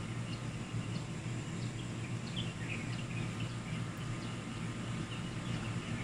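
Small birds chirping in short, scattered calls, a cluster of them about two to three seconds in and more near the end, over a steady low outdoor rumble.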